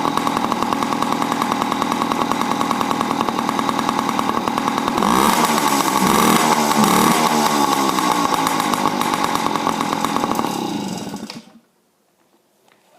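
Yamaha PW50's 49cc two-stroke single-cylinder engine running with a fast, even putter. About five seconds in it is revved, rising and falling in pitch, then it settles and cuts off near the end.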